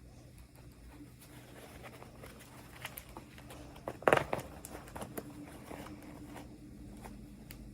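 Hands handling small plastic toy packaging: scattered light clicks and rustles, with one louder crinkling burst about four seconds in.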